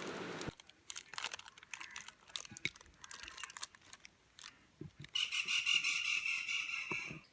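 Scattered light clicks and taps of bars of Dairy Milk chocolate being cut up and the pieces handled in a bowl. About five seconds in, a louder steady high buzzing sound starts, runs for about two seconds and cuts off suddenly.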